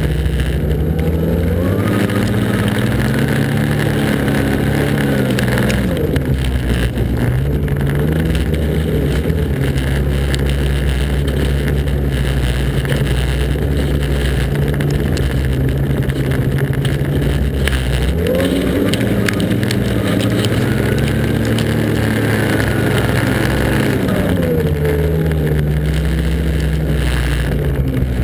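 Snowmobile engine running hard, its pitch climbing a couple of seconds in and dropping back around six seconds, then holding steady before climbing again about two-thirds of the way through and falling near the end.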